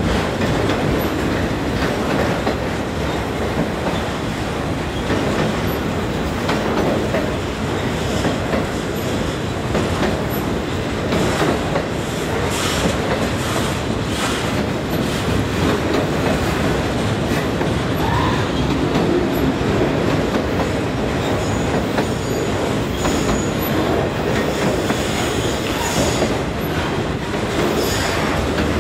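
Freight train of autorack cars rolling steadily past: a continuous rumble and rattle of steel wheels on rail. Brief high-pitched wheel squeals come in during the later part.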